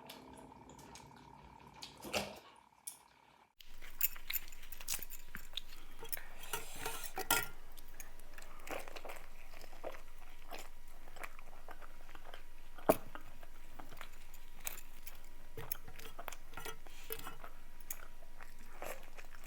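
Close-miked eating: chewing and mouth sounds with frequent sharp clicks and clinks of dishes, starting about three seconds in over a steady hiss. One click near the middle is much louder than the rest.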